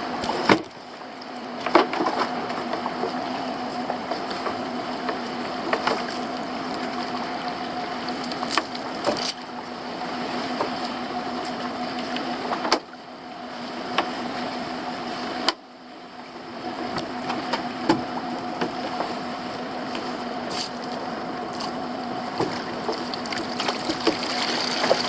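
Boat's outboard motor running steadily, with scattered sharp knocks and clicks on the boat.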